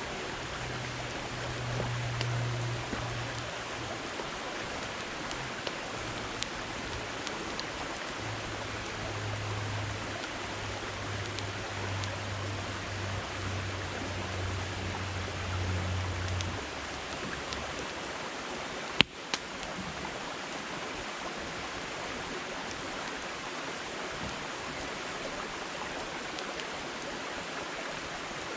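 Campfire of firewood logs burning with a steady hiss and scattered small crackles and pops, with one sharper snap about two-thirds of the way through. A low hum sits under the first half and stops after about sixteen seconds.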